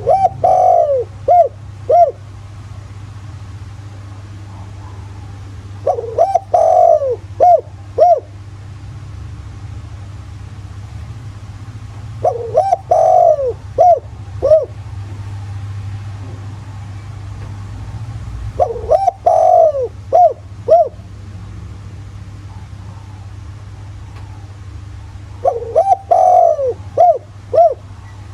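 Spotted dove crowing its territorial call: five phrases about six seconds apart, each a few slurred coos followed by three short notes, the kind of call used to provoke decoy and rival birds. A steady low hum runs underneath.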